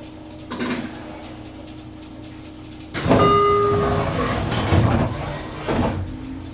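Doors of a JR Kyushu 815 series train. About three seconds in, a short electronic chime-like tone sounds as a loud sliding-door rush begins. It lasts about three seconds, with two thumps near the end.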